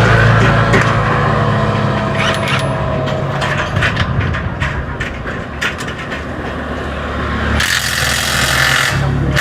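Irregular metallic clicks and knocks of a wrench tightening the motorcycle's bolts, with an engine running in the background that fades after the first seconds. A burst of hiss comes in near the end.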